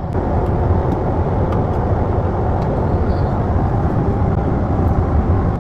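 Steady airliner cabin noise in flight: a low, continuous rumble and rush of air from the engines and airflow.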